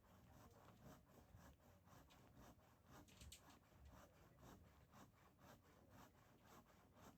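Faint, even scraping or rubbing strokes, about three to four a second, like something being rubbed or sawn back and forth.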